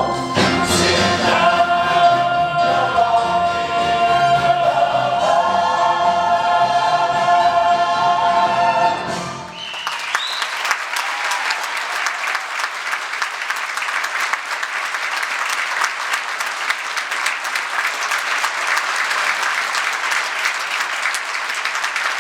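A stage chorus and pit band hold a long final chord of a show tune, which cuts off about nine and a half seconds in. Theatre audience applause follows and runs on steadily.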